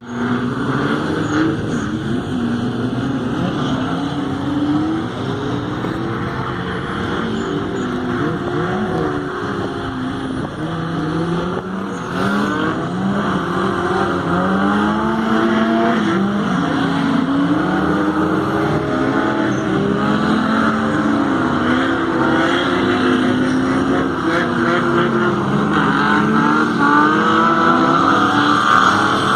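Two cars' engines revving hard and continuously through a drift, their pitches rising and falling and crossing one another as the throttle is worked.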